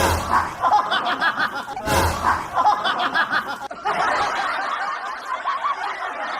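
Canned laughter sound effect: a short clip of laughing repeated about every two seconds, switching to a different, denser stretch of laughter a little under four seconds in.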